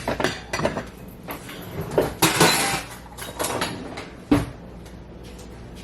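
Kitchen clatter while cooking: pans, utensils and a cupboard knocking and clinking in short irregular hits, with a brief rush of noise around two seconds in and a sharp knock about four seconds in.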